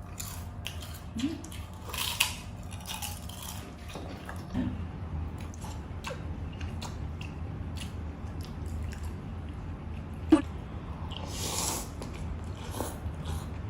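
Close-up eating sounds: chewing, biting and wet mouth clicks, with scattered crunches and a sharp click about ten seconds in. A low steady hum runs underneath.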